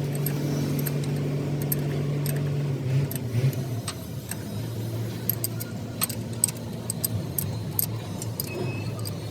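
An engine or motor running with a steady hum that drops slightly in pitch about three seconds in, with scattered light metallic clinks over it.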